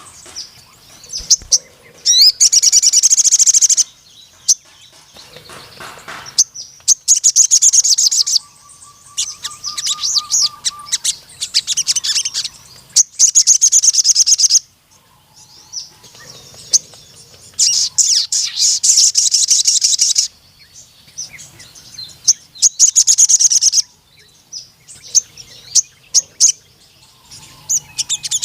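Crimson sunbird (sogon) singing: rapid, high trilling phrases of one to two seconds, repeated every few seconds, with short chirps in the gaps between.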